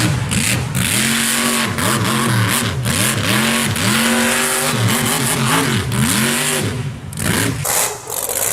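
An off-road vehicle's engine revved hard again and again in the mud, its pitch climbing and dropping about once a second over a steady hiss.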